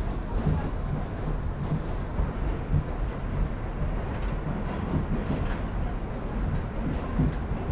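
New York City subway train running between stations, a steady rumble of the car and its wheels on the track heard from inside the moving car.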